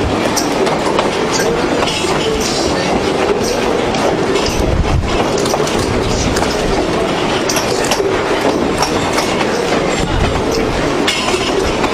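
Passenger train rolling along the track, heard from aboard: wheels clacking over the rail joints, with the car rattling and knocking over a steady rumble.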